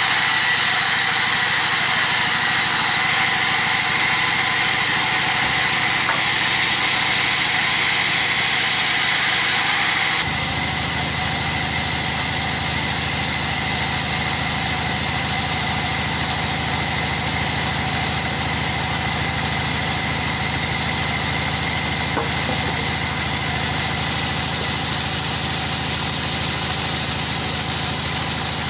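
A machine running steadily with a constant high whine. About ten seconds in, the sound changes abruptly to a deeper, fuller running hum.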